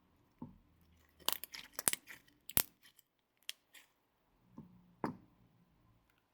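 Slime being handled, with a quick run of sharp crackling clicks and pops starting about a second in, then a few single clicks.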